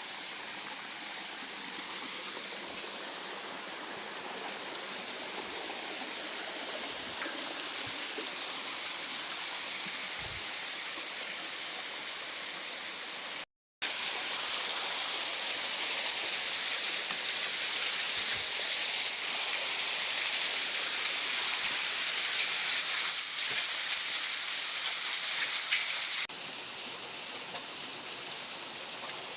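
Waterfall rushing water, a steady loud hiss that swells slowly. It breaks off for a moment just under halfway, comes back louder, then drops sharply a few seconds before the end.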